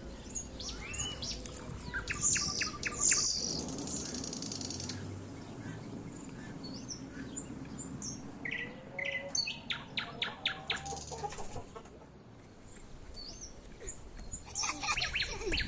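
Small songbirds chirping and singing, with rapid trills of short notes a few times and whistled calls in between.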